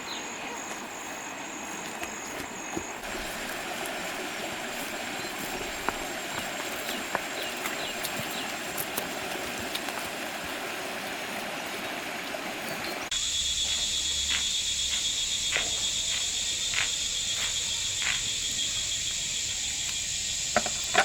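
Outdoor nature ambience: a steady rush like flowing water. About two-thirds of the way through it cuts to a louder, steady high-pitched insect drone with a few scattered clicks.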